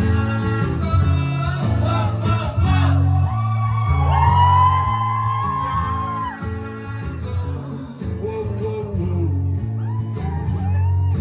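Live acoustic performance: acoustic guitar strumming chords under a singing voice that holds one long note about four seconds in.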